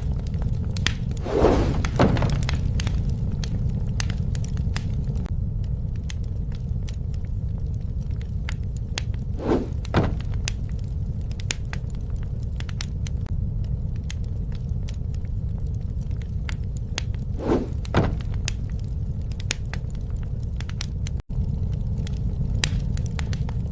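Wood fire burning: a steady low rumble of flames with frequent sharp crackles and pops. A pair of louder, duller swells comes about every eight seconds, and the sound drops out for an instant near the end.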